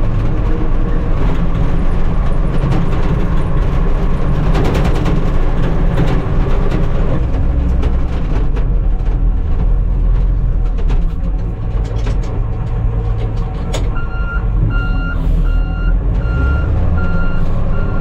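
Tucker Sno-Cat engine running with a steady low drone as it drives. About fourteen seconds in, a reversing alarm starts beeping, about two beeps a second.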